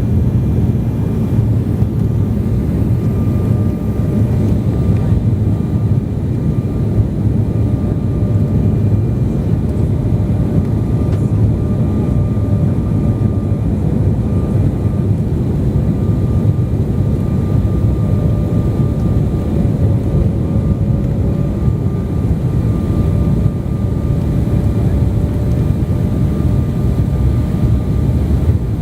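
Airliner cabin noise in flight: a steady, loud rumble of engines and airflow, with faint steady whining tones above it.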